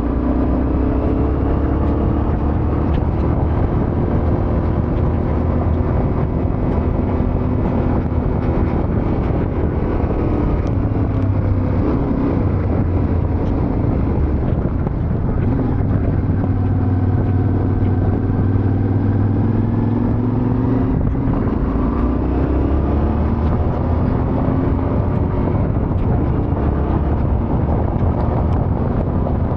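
Yamaha Ténéré 700's parallel-twin engine running under way, its pitch sagging and climbing again several times as the throttle changes, over a steady rush of noise.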